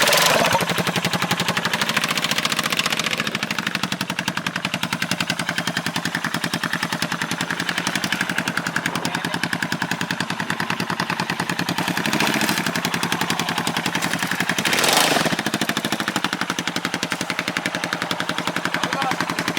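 2009 Yamaha Majesty 400 scooter's single-cylinder engine idling through a straight pipe: a loud, rapid, staccato exhaust popping. Brief throttle blips come about twelve and fifteen seconds in.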